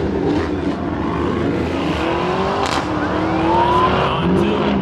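Car engines running loudly, with one engine revving so that its pitch rises in the second half.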